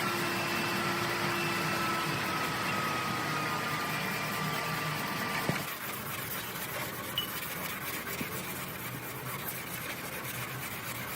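Engine running steadily with a faint whine that falls slightly in pitch; about halfway through there is a click and the sound drops to a quieter steady running noise.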